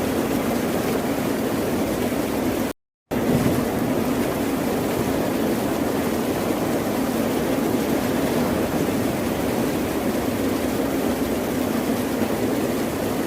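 Steady rushing wash of ocean surf, with the sound cutting out completely for about a third of a second roughly three seconds in.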